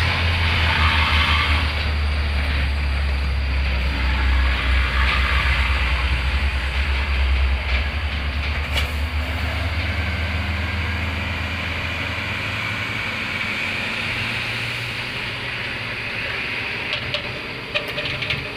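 A heavy dump truck's diesel engine rumbling low and loud, with a hiss above it. The rumble weakens after about eight seconds as the truck moves off.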